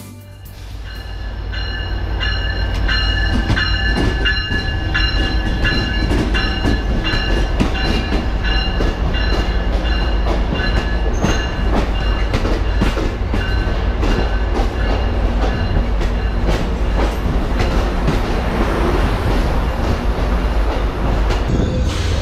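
Amtrak passenger train rolling along the platform close by: a steady low rumble that builds over the first couple of seconds, with repeated wheel clicks over the rail joints and high squealing tones from the wheels and brakes, strongest in the first half.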